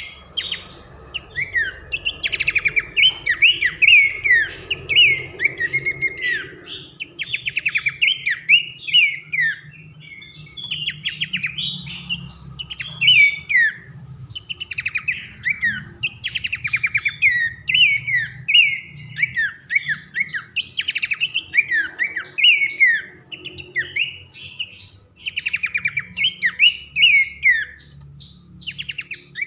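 Horsfield's babbler (pelanduk semak) calling loudly in rapid runs of sharp chirps and short falling whistles, almost without pause. A faint steady low hum lies underneath.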